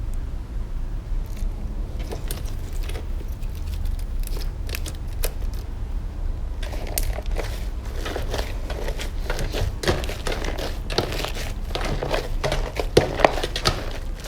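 Slime being squeezed and pressed by hand, giving sticky crackling and popping clicks that are sparse at first and turn dense about two-thirds of the way in, over a steady low hum.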